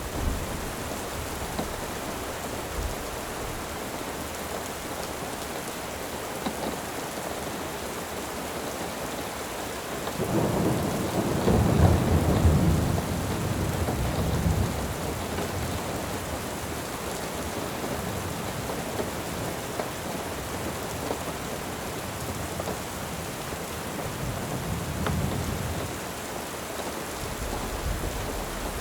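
Steady rain falling, with rolls of thunder: a loud low rumble swells about ten seconds in and lasts several seconds, and a fainter roll comes later on.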